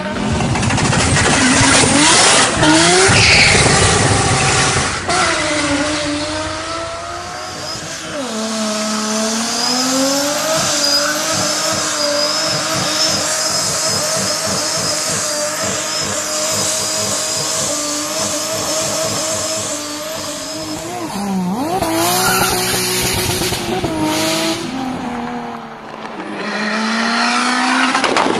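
Turbocharged car engine heard from inside the cabin, revving up and down repeatedly as the car is driven sliding on snow, its pitch rising and falling over and over with several deep drops between revs.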